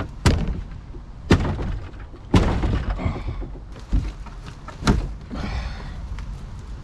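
A series of heavy thuds, five in all, about a second apart, each with a short ring after it, over a low steady rumble.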